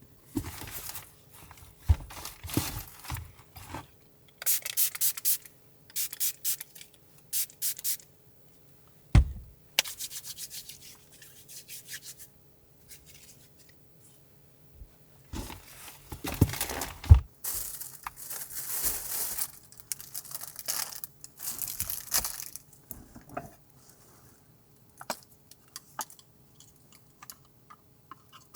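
Intermittent handling noises: short rubbing, rustling and scraping strokes, with a sharp knock about nine seconds in and a few louder knocks around the middle.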